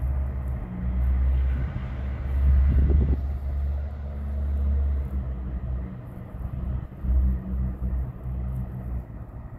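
Train approaching along the line: a low, uneven rumble that swells about three seconds in.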